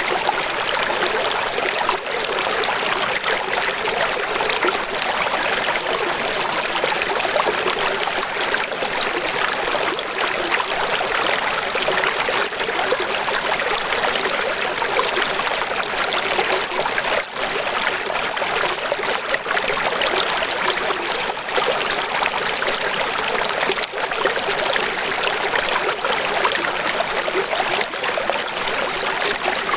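Running water: a steady, even rush with little deep rumble, holding constant throughout.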